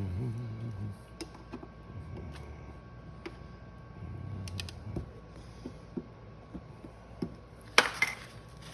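Light scattered clicks and scraping of a soldering iron being worked over a plastic bumper weld, with a louder clatter near the end.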